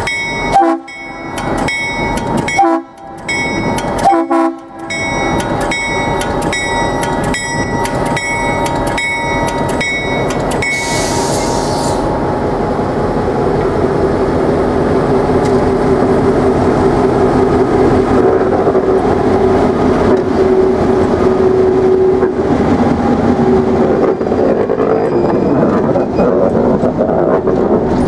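EMD GP7 diesel-electric locomotive, with its 16-cylinder two-stroke 567 engine, running past with two cabooses in tow. For about the first twelve seconds a bell rings in steady, evenly spaced strokes. After that the locomotive's engine and the rolling train give a steady drone.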